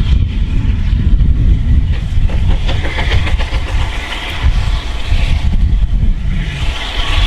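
Train running on the rails: a loud, heavy low rumble with a rushing hiss that swells and fades.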